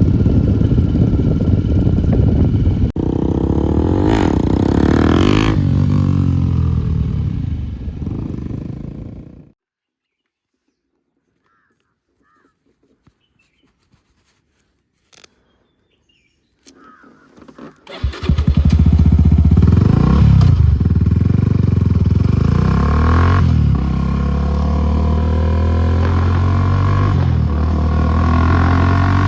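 Suzuki Gixxer SF250's single-cylinder engine running through an aftermarket Akrapovic exhaust, with the pitch rising and falling as it is revved. Less than halfway in, the sound dies away into silence with a few faint clicks. After about eight seconds it comes back loud, with more revs rising and falling.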